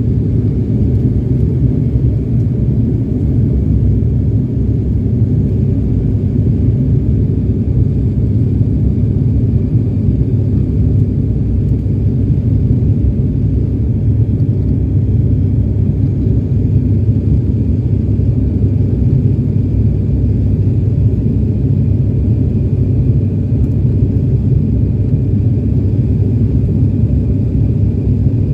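Steady low rumble of engine and airflow noise inside a passenger airliner's cabin in flight, with a faint high steady tone above it.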